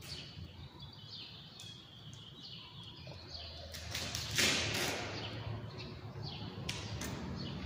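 Faint bird chirps over a low background hum, with a brief rustling burst of noise about four and a half seconds in.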